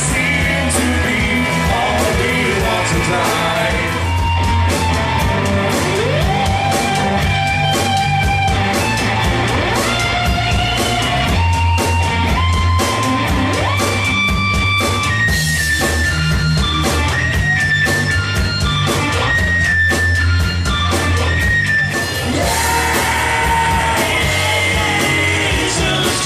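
Rock music played by a band, with electric guitar carrying long held notes that slide in pitch over bass and drums.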